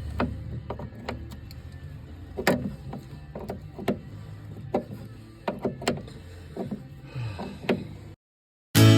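Scattered sharp clicks and light knocks at irregular intervals over a low steady hum, like hand work on metal fittings. The sound cuts out shortly before the end, and acoustic guitar music starts.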